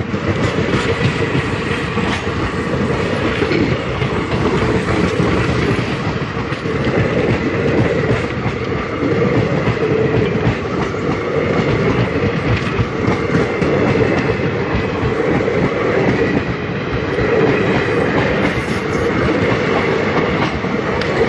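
Passenger train running past at close range on the next track: the steady, loud noise of its coaches' wheels on the rails.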